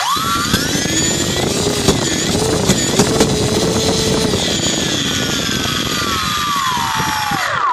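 Turnigy D2836/8 1100kv brushless outrunner motor whining as it spins up quickly, holds a high speed, then winds down slowly over the last few seconds as the throttle is backed off. The noise heard as it backs off comes from a bad bearing.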